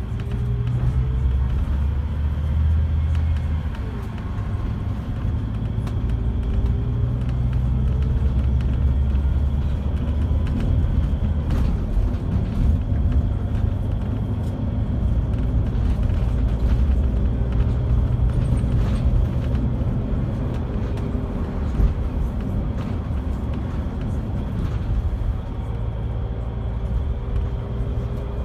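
Scania K360 coach's five-cylinder diesel engine and running gear heard from inside the coach while it is driven: a steady low rumble with road noise, faint whines that drift up and down in pitch with speed, and occasional small clicks and rattles.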